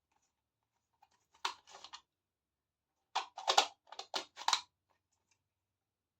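Small plastic toy pieces and packaging being handled: light clicks and rustles, a pair about a second and a half in, then a quick run of about five.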